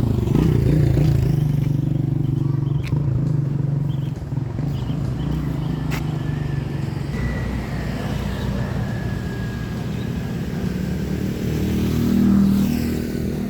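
Road traffic: motor vehicle engines running close by, with one passing and getting louder about twelve seconds in.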